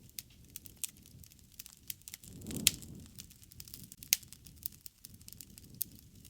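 Campfire crackling: scattered small pops and clicks over a soft low rush of flame. There are two sharper pops, one about two and a half seconds in with a brief swell of low flame noise around it, and another about four seconds in.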